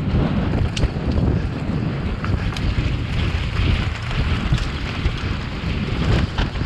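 Wind buffeting the microphone of a mountain bike's on-board camera during a fast downhill run, a steady low rumble. A few sharp clicks and rattles from the bike over the rocky trail cut through it, around one second in, between two and three seconds, and again near the end.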